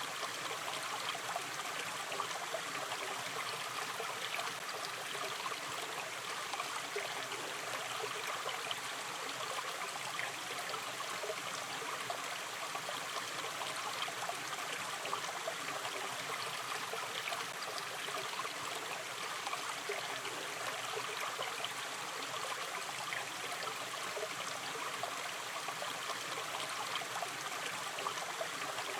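Gentle river stream flowing steadily over stones, a continuous babble of running water with fine trickling detail.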